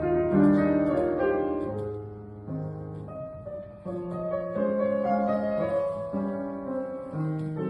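Solo piano playing slow, gentle chords, each note left ringing into the next.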